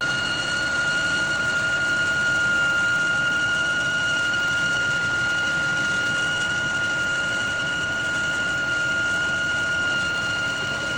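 Metal lathe machining a metal pulley: a steady high-pitched whine over running and cutting noise, setting in abruptly and holding level.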